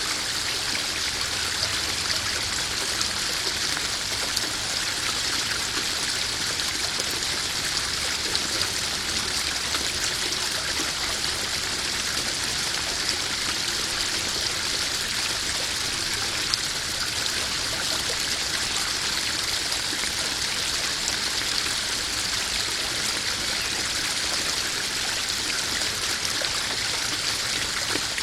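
Small garden waterfall splashing steadily into a koi pond, a constant even rush of falling water.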